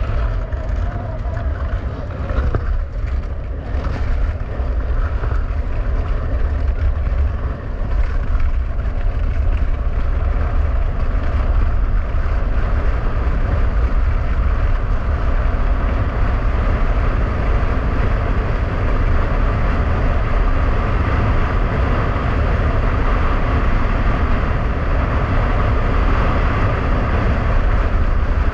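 Strong wind buffeting the microphone on a fast ski-winging run, with skis scraping over rough ice. It grows louder about eight seconds in and then holds steady.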